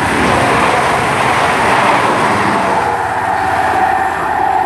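CrossCountry Class 220 Voyager diesel-electric multiple unit passing through the station at speed without stopping: a loud, steady rush of wheels and underfloor diesel engines. A steady whine comes in over the last couple of seconds.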